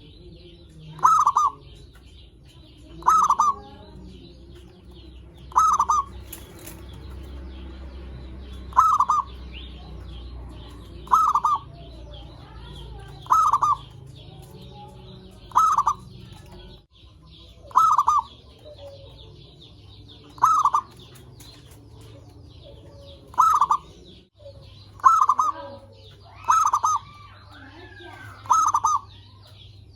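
Zebra dove (perkutut) cooing: short bursts of rapid notes, repeated about every two to three seconds, some thirteen times. Faint high chirping goes on underneath.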